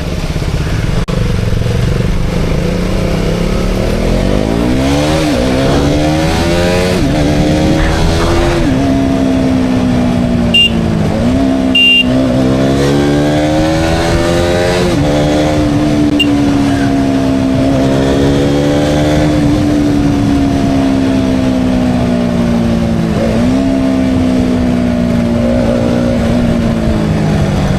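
KTM Duke 200's single-cylinder engine pulling away from low revs and accelerating up through the gears, its pitch climbing and dropping back with each of several quick upshifts, then holding a steady cruise before easing off near the end. Wind rushes throughout, and two short high beeps sound about midway.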